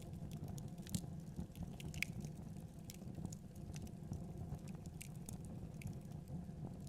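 Wood fire burning in a fireplace: irregular sharp crackles and pops, several a second, over a steady low rush of the flames.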